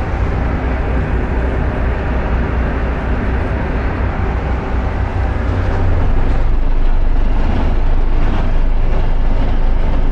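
Engine running steadily with a heavy low rumble, getting louder about six seconds in.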